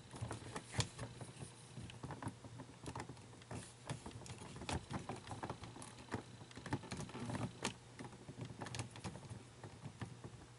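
Irregular clicking, tapping and rattling of small plastic parts being handled and fitted, as gears and pieces of an animatronic toy's mechanism are tried on.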